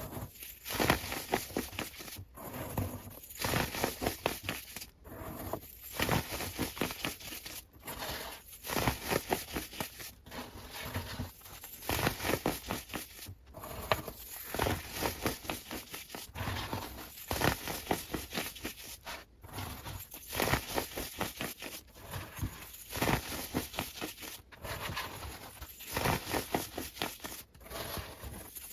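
Sped-up ASMR sounds: fast crinkling, tapping and crackling, broken by abrupt cuts every two to three seconds.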